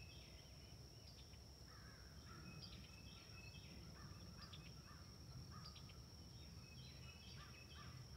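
Faint outdoor quiet, with a bird calling over and over in short harsh calls from about two seconds in, over a thin steady high whine.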